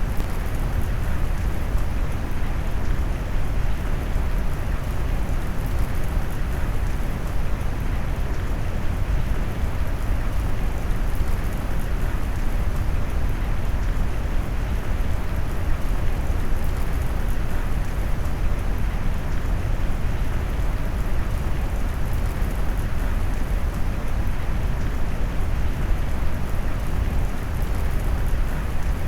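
Steady rain noise blended with brown noise: an even, deep hiss weighted to the low end, with no separate drops, rumbles or changes.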